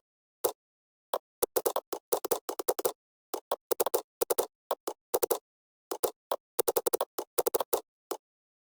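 Computer keyboard typing: irregular bursts of keystrokes with short pauses between them, stopping near the end.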